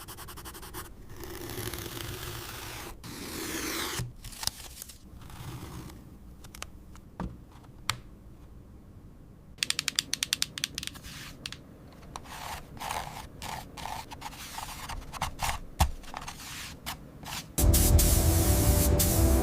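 Cardboard being cut and scraped during a craft build: uneven scraping and cutting strokes, with a quick run of about a dozen sharp clicks about halfway through. Loud music comes in near the end.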